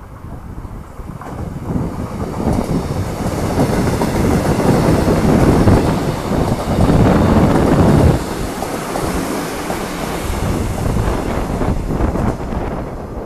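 Hyundai Rotem-built Korail Class 321000 electric multiple unit passing through the station at speed without stopping, its wheels running on the rails. The sound builds as the train approaches and is loudest for about four seconds as the cars go by. It drops off sharply about eight seconds in as the last car passes, then carries on lower as the train runs away.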